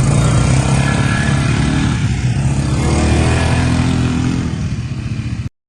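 Motor vehicle engine running steadily, cutting off abruptly near the end.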